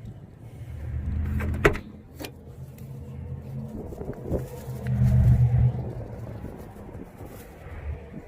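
Low rumble of a motor vehicle rising and falling in two swells, the second louder, with two sharp clicks about a second and a half and two seconds in.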